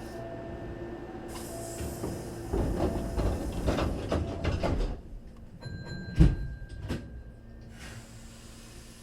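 Hankyu 3300 series train's sliding passenger doors closing: short repeated tones, then the doors run shut with a loud clatter and a heavy thud about six seconds in.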